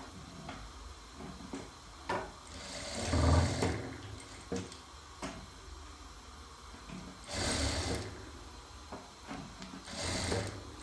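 Sewing machine running in three short bursts, the first the longest and loudest, with small clicks and knocks between the runs.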